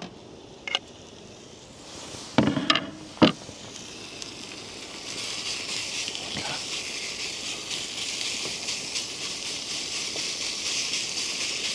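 Food frying in a pan on a portable camp stove, a crackling sizzle that builds and grows louder from about five seconds in, on a low heat. Before that, a few sharp clanks of a utensil against the pan come about two to three seconds in.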